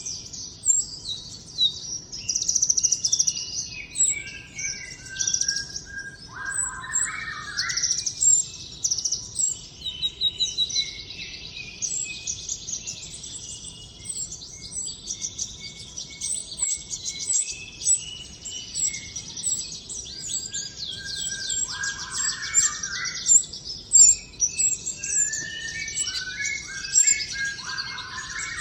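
A sunbird, the 'konin' (kolibri ninja), singing busily in long, fast, high-pitched trills and chirps with hardly a pause, with a few short runs of lower, falling notes now and then.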